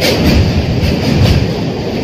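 Rajya Rani Superfast Express train running along the track: a steady wheel-on-rail rumble with a few sharp clicks as the wheels pass over rail joints.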